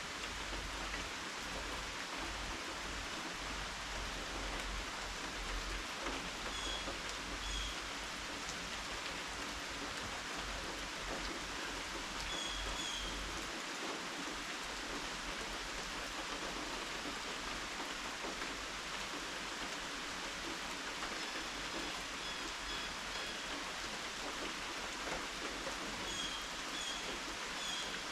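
Steady rain falling, an even hiss of drops. Every few seconds there is a short pair of high chirps, four times in all.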